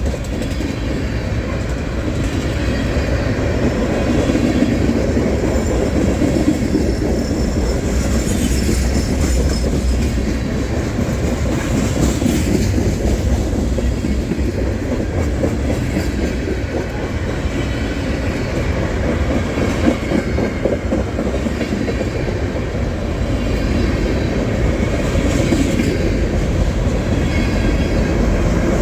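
Freight train's cars rolling past, wheels clacking steadily over the rail joints.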